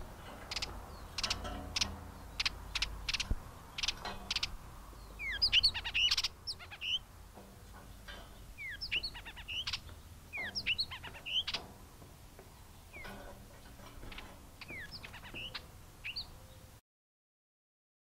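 Songbirds calling: a run of sharp ticks, then many short, quick chirps that slide down in pitch. The sound cuts off abruptly near the end.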